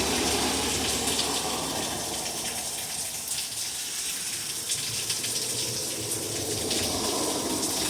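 Rain pouring steadily, an even rushing hiss with fine scattered ticks of drops striking surfaces.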